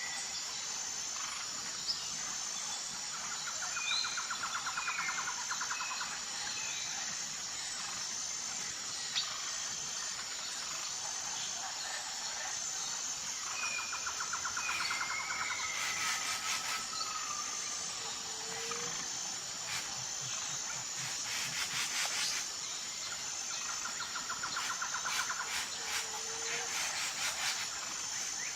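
Outdoor nature ambience: a steady chorus of insects chirping in a fast, even pulse, with scattered short bird chirps and a buzzy trill that comes and goes three times.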